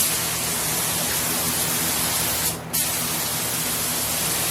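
Air-fed paint spray gun hissing in two long passes, cut off briefly near the middle as the trigger is let go, over a steady low hum.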